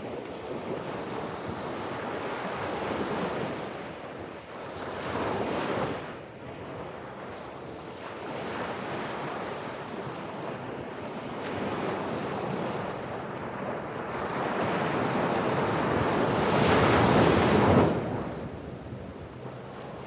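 Pacific Ocean surf: waves breaking and washing up the shore in a continuous rushing wash that swells and ebbs, with the largest surge about three-quarters of the way through, then falling away. Wind buffets the microphone.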